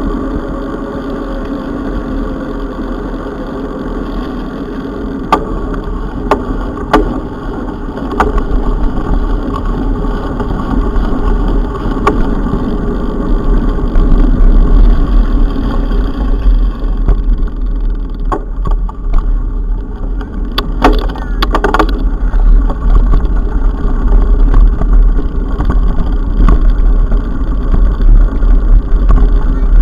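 Mountain bike on the move: heavy wind rumble on the microphone with tyre and trail noise and a few sharp knocks and rattles from bumps, louder from about eight seconds in.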